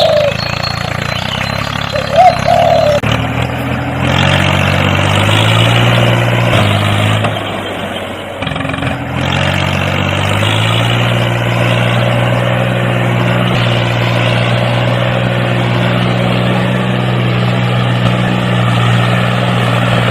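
Homemade mini tractor's small motor running while it works a rotavator through mud. Its pitch shifts and dips around eight seconds in, then holds steady. Two short high chirps come near the start.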